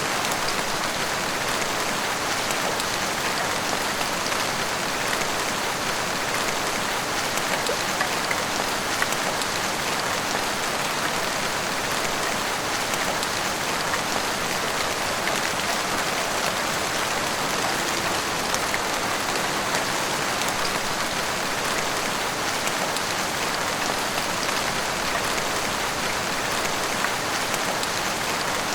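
Heavy rain pouring steadily, a dense even hiss with small drop ticks from rain hitting rooftops and the street.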